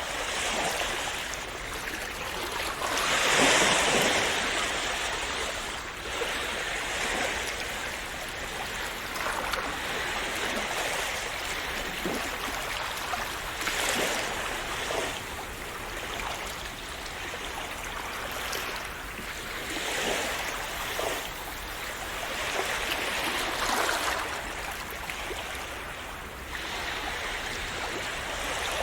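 Sea waves washing and splashing on the shore in a continuous wash that swells and ebbs, with the biggest surge about three seconds in.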